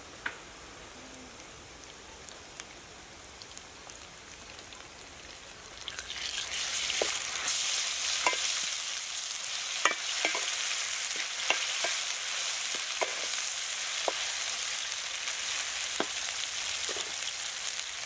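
Sliced onions, green chillies and ginger-garlic paste frying in oil in an aluminium pot, a steady sizzle that grows louder about six seconds in as a spoon stirs them. The spoon clicks against the pot again and again through the second half.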